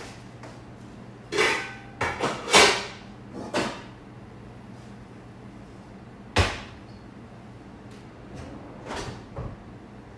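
Kitchen handling noises: a quick run of knocks and clunks in the first few seconds, one sharp knock past the middle and a couple of softer ones near the end, over a steady low hum.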